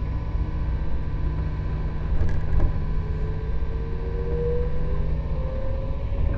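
Inside a 115 series electric train's motor car with MT54 traction motors: a steady low rumble, with a faint whine slowly rising in pitch in the second half.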